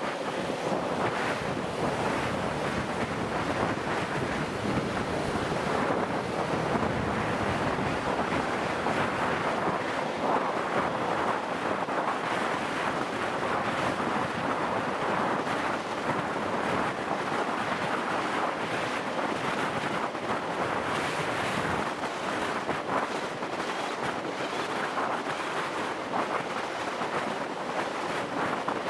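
Steady wind rushing over the microphone of a moving motorcycle, with no clear engine note standing out.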